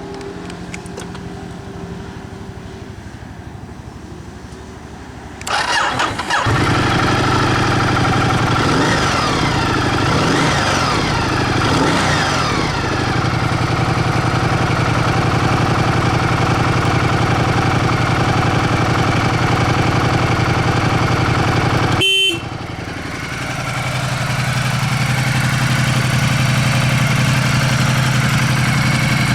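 Ducati Multistrada 1200 S's L-twin engine with a Termignoni exhaust starting up about five seconds in, then idling with a deep, steady exhaust note. The sound drops out briefly around two-thirds of the way through, then returns at the same steady idle.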